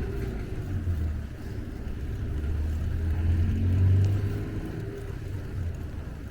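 A motor vehicle's engine hum as a car passes, swelling to its loudest about four seconds in and then fading.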